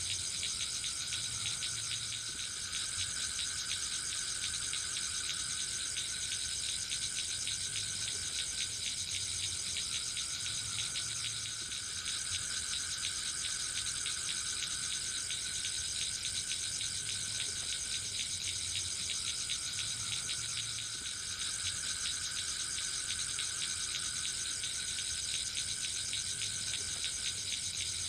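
Forest insect chorus: a dense, steady high trilling, with a lower call that swells and fades every few seconds.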